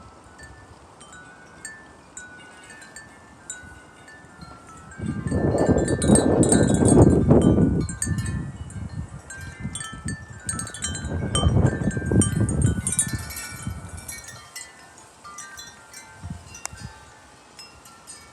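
Wind chimes ringing in the wind, tone after tone. Two strong gusts rush in, about five and eleven seconds in, each lasting a few seconds and setting the chimes ringing harder.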